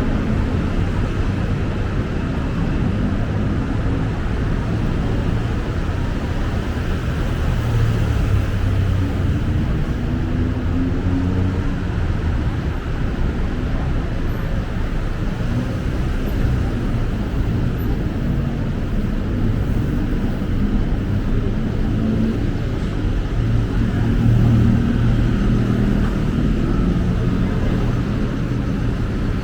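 City road traffic: a steady rumble of vehicle engines and tyres passing, with now and then an engine's pitch rising and falling as a vehicle speeds up or slows.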